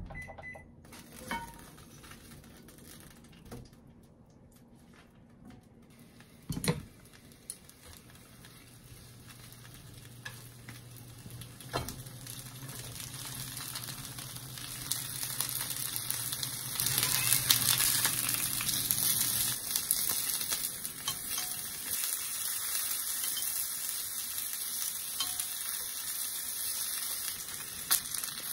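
Onion slices and whole peppers frying in oil in a frying pan, the sizzle building up after a quiet start and loudest a little past halfway. A sharp knock about seven seconds in, from the pan or utensils.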